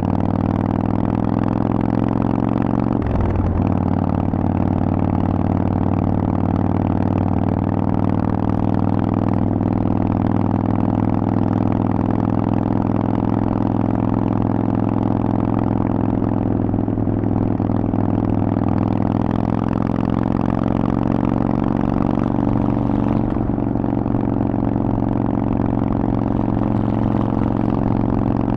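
Harley-Davidson Forty-Eight's air-cooled 1200 cc V-twin running through a Vance & Hines aftermarket exhaust, riding at a steady engine speed. The note rises slightly at first, then breaks briefly about three seconds in before settling again.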